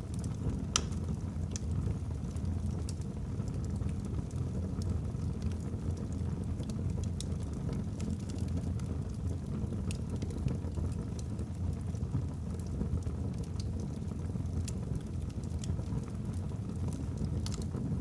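Wood logs burning in a fireplace: a steady low rush of flame with sharp crackles and pops from the logs at irregular moments.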